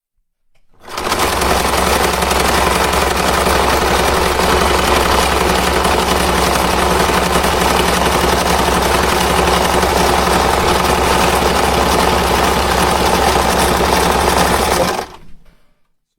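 Truck engine running steadily at a constant speed. It comes in quickly about a second in, holds an even level, and fades out quickly near the end.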